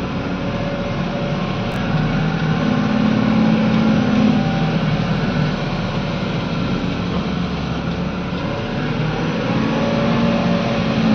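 Hydraulic excavator's diesel engine running steadily, its note swelling under load a couple of seconds in and again near the end.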